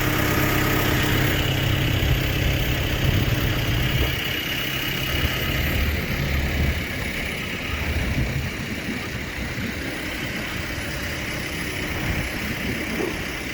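Reach forklift engine running steadily without speech, heaviest in the first four seconds and then easing to a lower, uneven rumble.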